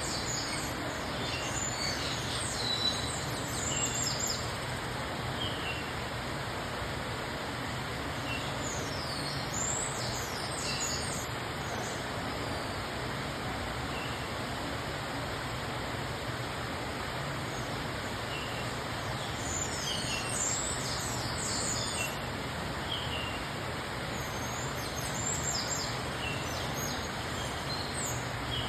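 Birds chirping and calling in short, high, sweeping notes that come in clusters every several seconds, over a steady background hiss and hum.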